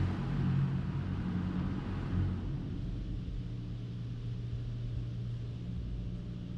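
Low, steady rumble of a car, with a hiss over it that fades out in the first two or three seconds.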